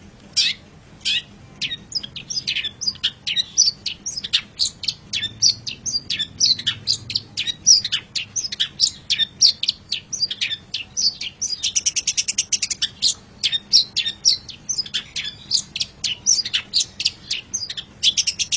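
Long-tailed shrike (cendet) singing a rapid, varied string of short chirping notes, with a fast rattling trill about twelve seconds in and again near the end.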